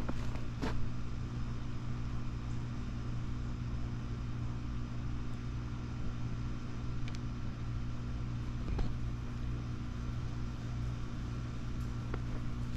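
A steady low mechanical hum, like an engine or motor running, with a few faint clicks.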